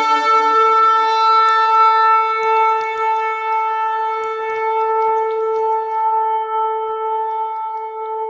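Ram's-horn shofar blown in one long, steady blast, holding a single note without a break.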